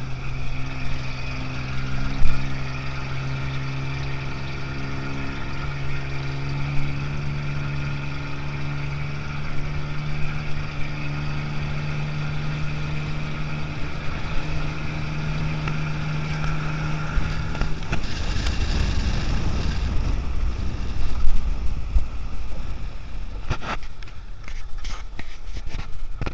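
Off-road rally car's engine running at a steady pitch while it drives along a gravel track, with tyre and road noise under it. About eighteen seconds in, the engine note fades into a low rumble, and near the end come several sharp knocks.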